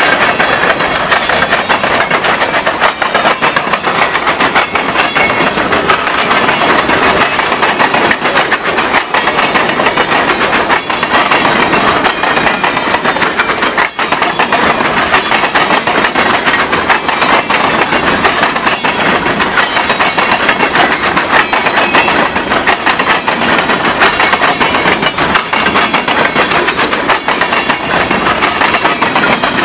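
Freight train's covered hopper cars rolling past close by: steel wheels clattering over the rails in a loud, steady din full of rapid clicks.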